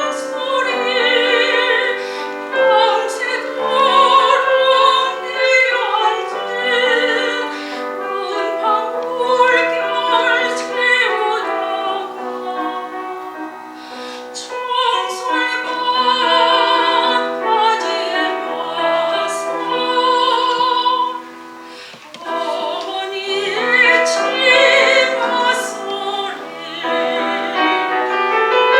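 Soprano singing a Korean art song (gagok) with wide vibrato over piano accompaniment, in classical style. The music drops briefly to a quieter passage about three-quarters of the way through, then swells again.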